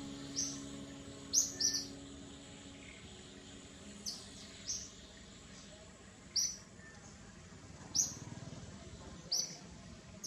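Short, high chirps, about eight in all, mostly one at a time and once as a quick pair, spaced a second or more apart.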